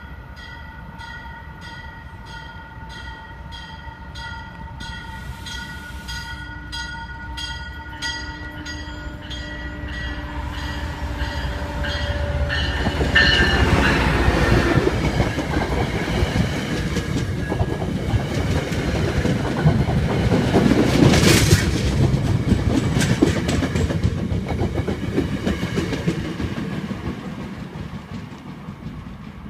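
MBTA Commuter Rail train, locomotive and coaches, approaching and passing close by. The sound builds over about ten seconds, is loudest as the locomotive and cars go past with their wheels running over the rails, then fades away.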